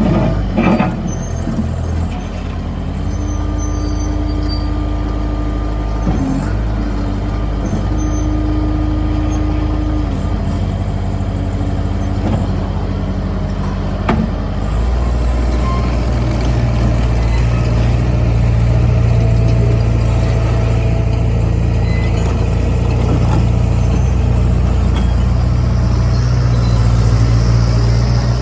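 Bobcat T110 loader's engine running steadily, stepping up to a louder, fuller note about halfway through as it is throttled up.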